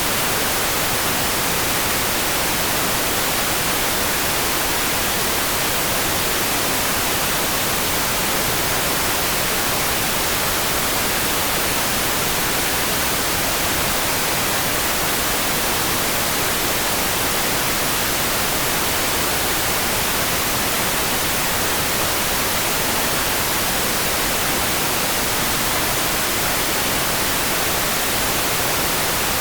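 Steady, even hiss of sleep-sound rain, unchanging throughout, with no separate drops or patter standing out.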